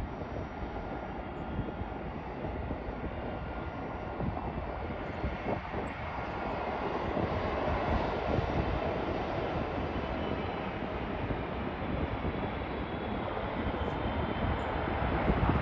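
Jet engine noise from a Turkish Airlines Boeing 777-300ER on final approach, its GE90 turbofans a steady rush that grows gradually louder as it nears, loudest near the end.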